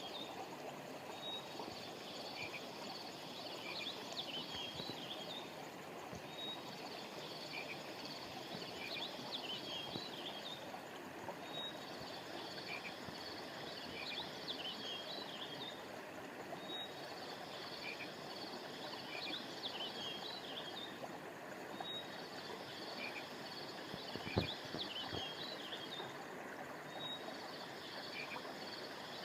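Stream water running steadily, with clusters of high chirps from small creatures repeating in the same pattern about every five seconds. A single brief low thump about 24 seconds in.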